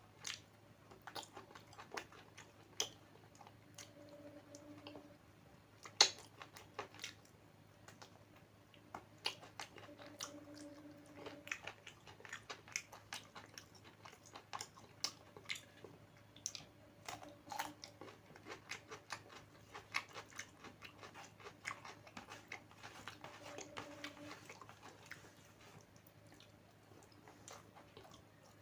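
Close-miked chewing of a meal of rice and Bengali dishes: wet mouth clicks and smacks several times a second, with a sharp click about six seconds in.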